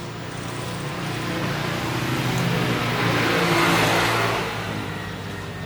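A motor vehicle passing by: engine and road noise swelling to a peak about three and a half seconds in, then fading away.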